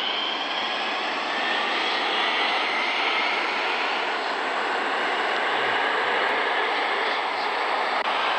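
Seoul subway Line 2 electric train running between stations: a steady roar of wheels on rails, with a faint, slowly rising whine from the traction motors as it gathers speed.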